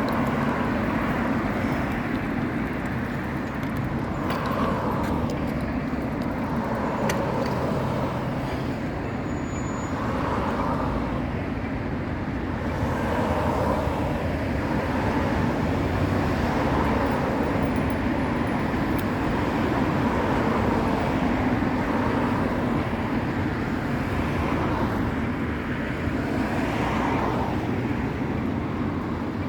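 Steady road traffic noise, with cars passing, heard from a moving bicycle.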